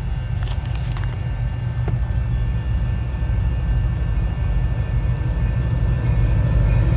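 Low, steady rumble of diesel freight locomotives approaching, growing gradually louder.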